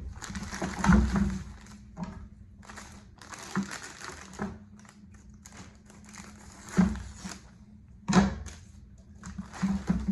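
Paddle parts being handled: irregular rustling bursts and a few sharp knocks as shafts and blades are moved about, over a steady low hum.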